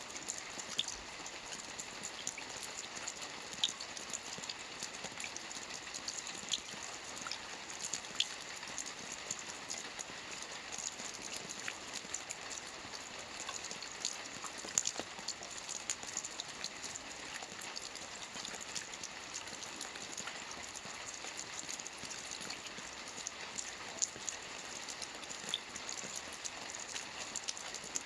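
Rain falling on a lake: a steady hiss dotted with many small, irregular drop ticks.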